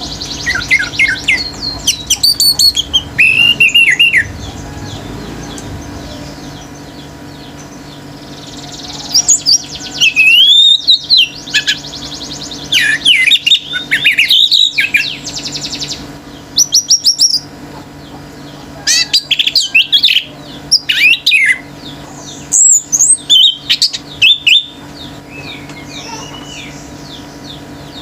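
Orange-headed thrush singing in loud bursts of rapid, varied whistled phrases that sweep up and down, with pauses of a few seconds between bursts, over a faint steady hum.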